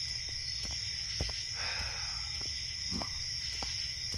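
Night-time bedroom ambience sound effect: a steady high-pitched drone over a low hum, with a few faint scattered clicks and a brief soft rustle before the halfway point.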